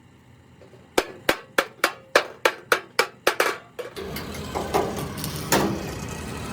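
Hammer blows, about ten in quick even succession at roughly three a second. About four seconds in they give way to a steadier background noise with one louder knock.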